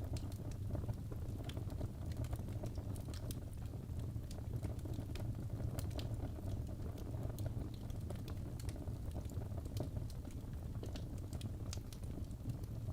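Wood fire crackling: burning logs giving irregular sharp pops and snaps over a steady low rumble of the flames.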